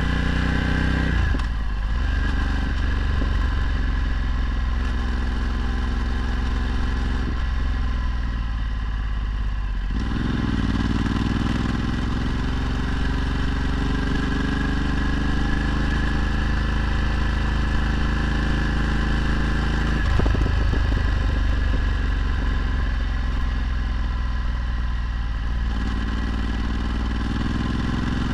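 Ducati Multistrada 1260's V-twin engine through a Termignoni exhaust while riding. The engine note drops several times, as on gear changes or closing the throttle, and climbs again after each, rising near the end.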